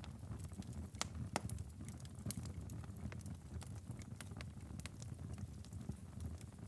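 Wood fire crackling in a fireplace: irregular sharp pops and snaps, a couple of louder ones about a second in, over a steady low rumble of the flames.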